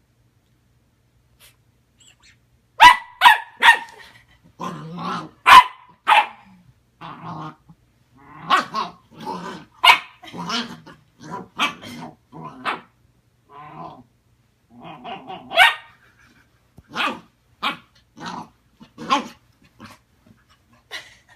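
Puppy barking in an irregular series of short, sharp barks mixed with lower, growly ones. It starts about three seconds in with three quick barks.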